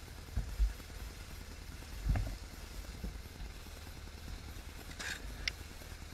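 Motorcycle engine running steadily at low revs, with two dull thumps about half a second and two seconds in.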